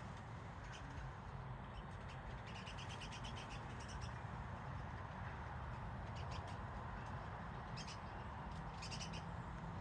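Small wild birds chirping in short, scattered bursts of quick high notes, over a steady low background rumble.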